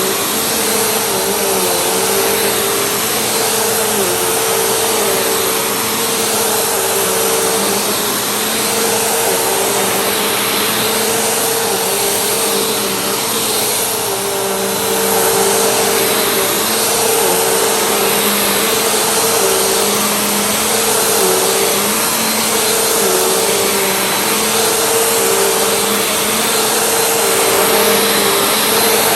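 Vacuum cleaner running steadily with a loud rushing hiss and a motor hum, the hum dipping briefly in pitch every two seconds or so.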